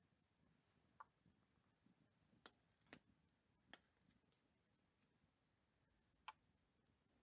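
Near silence, broken by a handful of faint, scattered clicks and ticks.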